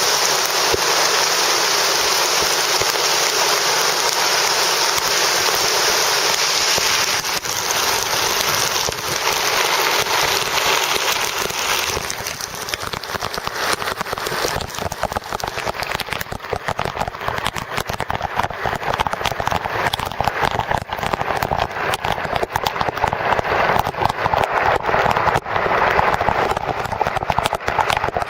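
Rain: first a dense, steady hiss of heavy rainfall. About halfway through the hiss thins, and many separate raindrop impacts tick and splat close to the microphone.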